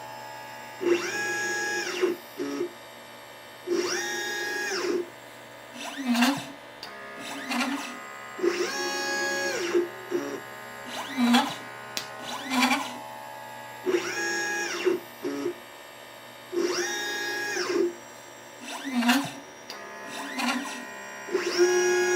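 LitePlacer pick-and-place machine's stepper motors whining as the gantry makes move after move, the pitch rising as each move speeds up and falling as it slows, with sharp clicks in between. The cycle repeats every two to three seconds.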